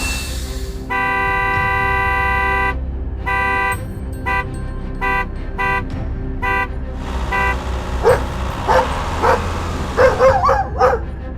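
A vehicle horn gives one long blast, then about seven short toots. From about eight seconds in, a dog barks repeatedly, over a steady low hum.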